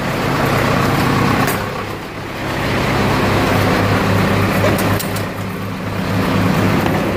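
Diesel engines of farm tractors and a skid loader running together while warming up after a cold start, a steady low hum that takes on a regular throb in the second half, with a few light clicks.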